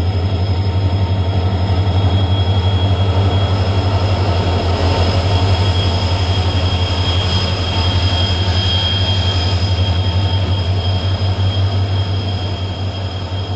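Locomotive-hauled express train passing through a station platform, the locomotive and then its coaches running by. It makes a loud, steady low rumble with a steady high whine above it.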